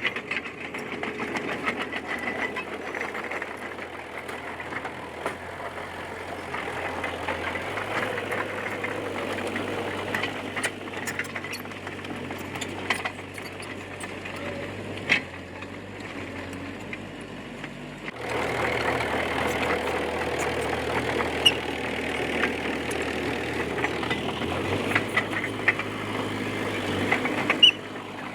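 Komatsu D20P bulldozer's diesel engine running under varying load, with scattered clanks and knocks from the machine. The sound jumps suddenly louder about two-thirds of the way through.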